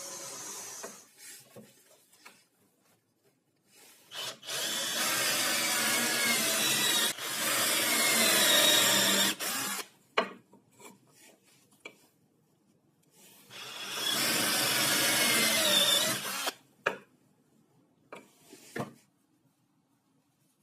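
Electric power tool working wood in two runs, about six and then three seconds long, its motor whine wavering in pitch, with a few short knocks in the quiet gaps.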